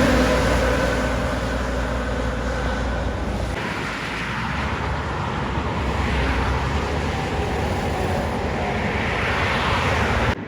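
Heavy trucks driving past on a highway, with engine drone and tyre noise. The sound changes abruptly about a third of the way in to another truck passing.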